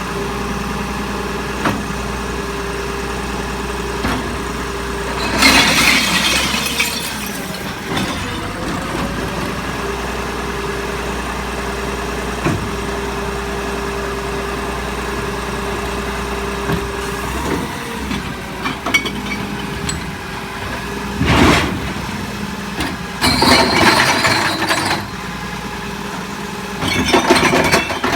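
Recycling truck engine idling steadily, with several loud crashing bursts of recyclables, glass among them, tumbling out as carts are dumped into the hopper.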